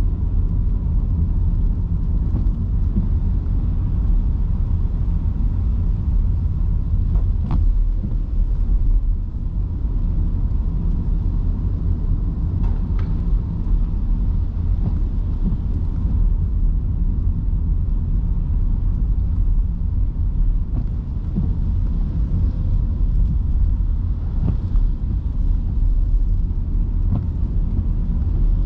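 Steady low road and tyre rumble of a car driving on rain-soaked city streets, with a faint hiss above it and a few faint clicks.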